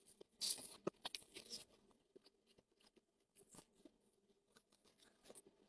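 Faint close-up eating sounds: a brief soft crunch and a few small wet mouth clicks in the first second and a half, then near silence with scattered faint ticks.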